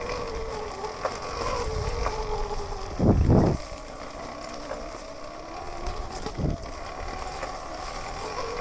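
Sur-Ron electric dirt bike riding a rough trail: the electric motor's thin whine drifts up and down with the throttle over low rumbling ride noise, with a short loud rumble about three seconds in and a smaller one near six and a half seconds.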